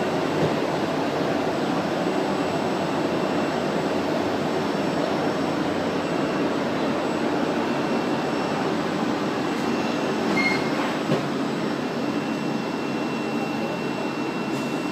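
Frecciabianca train at the station, its running equipment giving a steady, unchanging rumble with a faint hum. A short high beep sounds once, about ten and a half seconds in.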